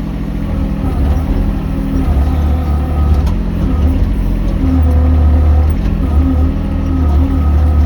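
Mini excavator's engine running steadily, its pitch stepping up and down as the machine works.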